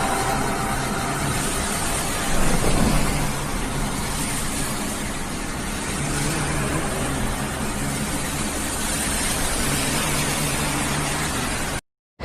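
Steady loud rushing noise over a low, even engine hum, like a vehicle running while wind blows hard; it cuts off abruptly near the end.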